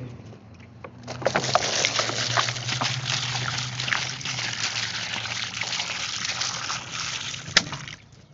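Water being poured into the birds' empty water dish, a steady splashing pour that starts about a second in and stops near the end, with one sharp tap shortly before it stops.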